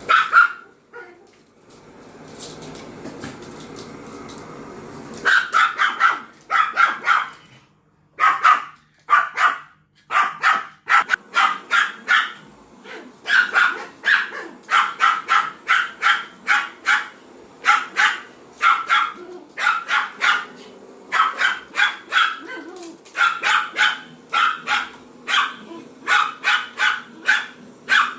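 Small Pomeranian dog barking repeatedly at a vacuum cleaner in sharp, high barks, often several a second in quick runs. The vacuum cleaner's steady noise runs for a few seconds near the start and stops suddenly, and the barking then goes on almost without a break.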